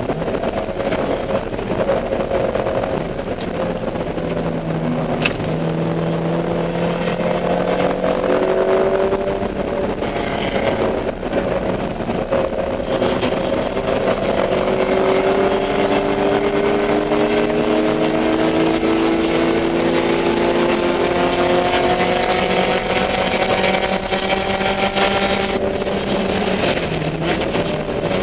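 Dodge Neon race car's four-cylinder engine running on track, its pitch climbing and dropping back several times with throttle and gear changes, over steady road and wind noise.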